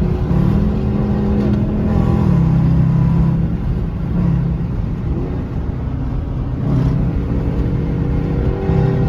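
Dodge Charger R/T's V8 engine and exhaust running under way at highway speed, the engine note dropping in pitch in steps a couple of times in the first few seconds, then holding steady.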